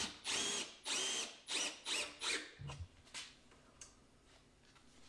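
Power drill-driver run in about six short bursts, its motor whine rising and falling with each pull of the trigger as a screw is driven back in. After the bursts, only a few faint clicks.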